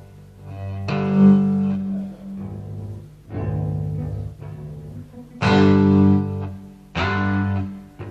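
Band music: guitar and bass play four separate held chords, each starting sharply and ringing for one to two seconds before the next.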